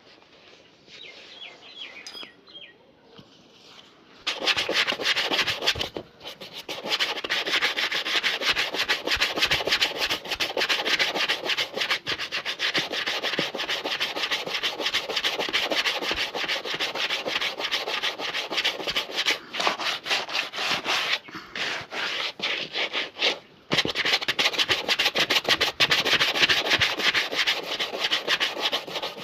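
A leather shoe being rubbed to a shine with fast back-and-forth strokes during shoe polishing. The strokes begin about four seconds in and keep up a rapid, dense rhythm, with a few short pauses.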